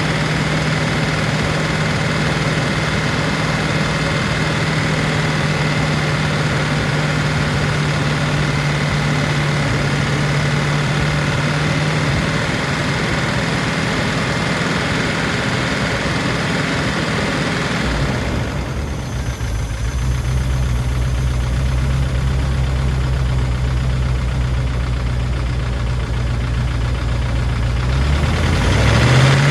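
Range Rover P38's V8 engine idling steadily, with Rislone just added to the oil to free a sticking valve or lifter. About two-thirds of the way through the hum turns lower and deeper, and near the end it rises in pitch again.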